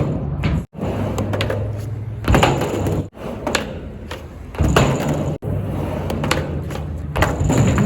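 Skateboard wheels rolling back and forth on a mini ramp, with a loud clack or scrape about every two and a half seconds as the board hits the top of the ramp.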